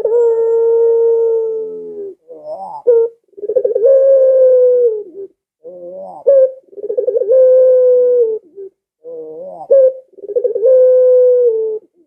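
Barbary dove (puter) of the long-calling 'pelung' type cooing repeatedly. Each call is a short rising note followed by a long, drawn-out held coo, heard about four times.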